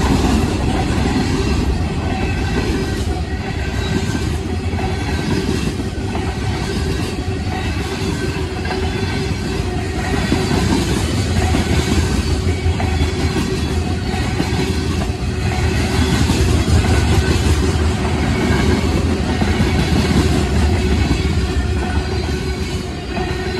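Freight train cars, covered hoppers and tank cars, rolling past at close range: a steady rumble of steel wheels on the rails.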